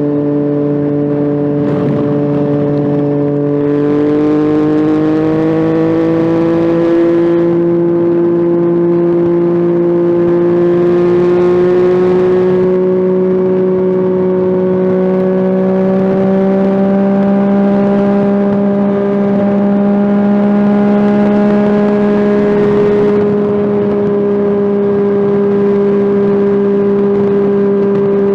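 Yamaha FZ-09 (MT-09) 847 cc inline-three engine pulling steadily, its note rising slowly over most of the stretch and then easing slightly near the end. Rushing noise swells over it several times.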